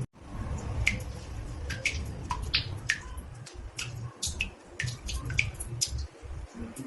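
Water drops falling into a bathtub: irregular plinks, a few each second, over a low rumble.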